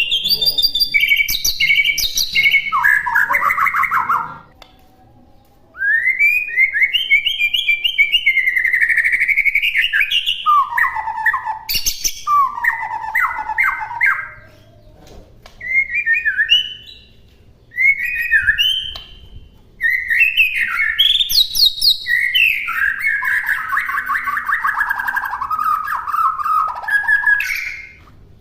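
White-rumped shama (murai batu) singing a long, varied song of whistled and chattering phrases, rich in mimicked phrases, broken by a few short pauses.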